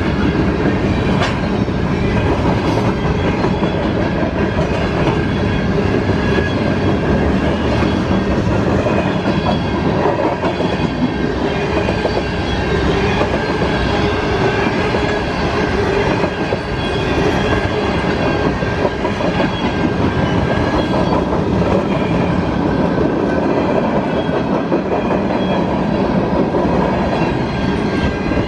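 Cars of a CSX mixed freight train rolling past, wheels clacking over the rail joints, with a thin steady high ringing tone above the continuous rumble.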